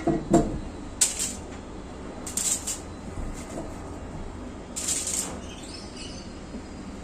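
Kitchen handling during food preparation: a low knock just after the start, then three short bursts of crinkling about a second, two and a half seconds and five seconds in.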